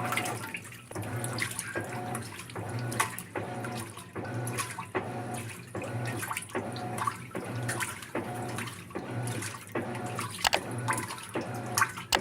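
Maytag top-load washer agitating during its wash cycle: the motor hums and the water sloshes in regular strokes, a little under a second apart.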